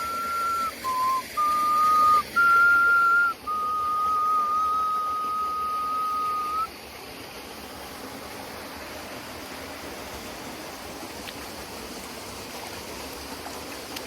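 Nose flute playing a slow melody of pure, whistle-like held notes. The phrase ends on a long held note about halfway through, leaving the steady rush of the waterfall.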